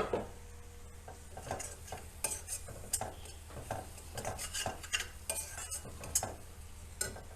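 A utensil scraping and clinking in a pan as ground spices are stirred and fried in oil (the spice masala being sautéed), in irregular strokes about twice a second, after a sharp knock at the start.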